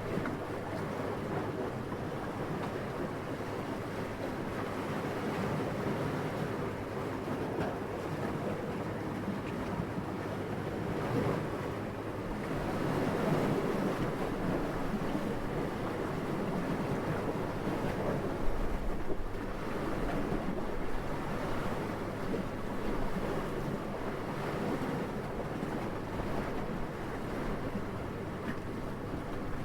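Soft, steady wind rushing, swelling in a gust about halfway through and then settling.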